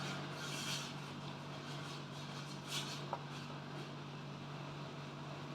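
A steady low electrical or fan-like hum, with a few short soft hissing sounds over it.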